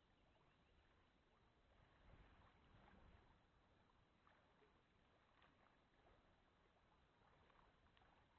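Near silence: faint background noise with a few scattered faint ticks.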